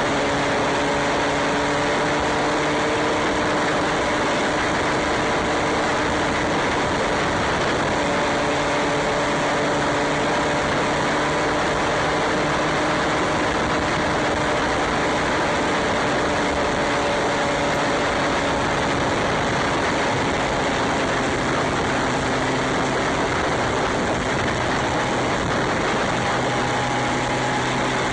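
Motorcycle on the move: its engine runs steadily with slowly shifting pitch under a constant rush of wind and road noise.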